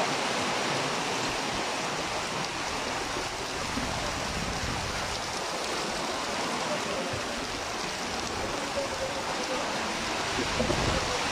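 Steady rush of heavy rain and running floodwater, an even hiss with no breaks.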